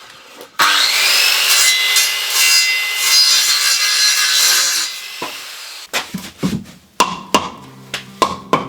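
A saw cutting through wood for about four seconds, then a run of sharp knocks and taps.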